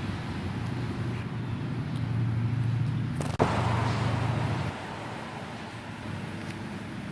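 A motor vehicle's engine running with a steady low hum that stops abruptly a little over halfway through, with a sharp click about three and a half seconds in.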